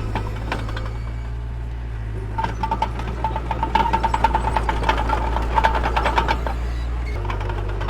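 Diesel engine of heavy earth-moving machinery running steadily. From about two and a half seconds in, a rapid rattling clatter rises over it for about four seconds, then eases off.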